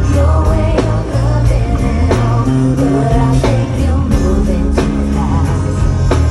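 Live band music from a pop/R&B song, with a steady drum beat and deep sustained bass notes under the melody.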